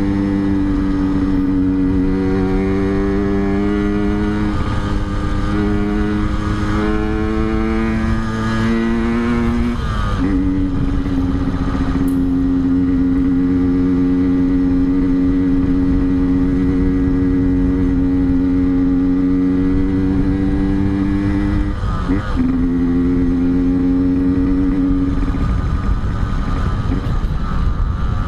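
Yamaha RX-King's two-stroke single-cylinder engine running under way, its pitch climbing slowly in each gear, with a brief dip for a gear change about ten seconds in and again a little past twenty seconds.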